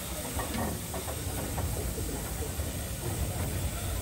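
Narrow-gauge steam locomotive moving off with its train, with steam hissing over a low rumble.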